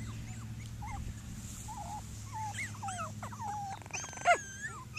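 Cockapoo puppies whining and whimpering in a run of short, high squeals, with one louder yelp about four seconds in. A steady low hum runs underneath.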